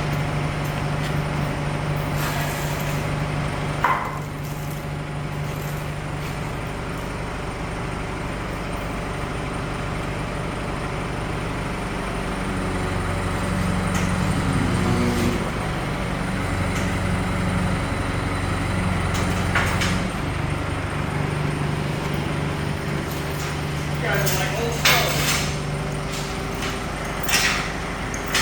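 A motor running steadily with a low hum that shifts pitch a couple of times, and a few sharp metallic clanks, the loudest about 25 seconds in.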